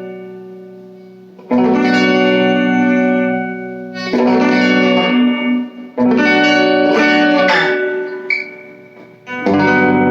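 Two-pickup electric guitar played through a small all-tube amp with the tone knob turned down, giving a fairly clean sound. Chords are struck and left to ring, four fresh strums, each fading before the next.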